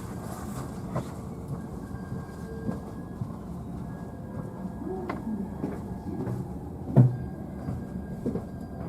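JR East E531 series train running, heard from the upper deck of a double-deck car: a steady rolling rumble with a faint steady whine. Scattered knocks and clacks from the wheels and car body sound over it, the loudest about seven seconds in.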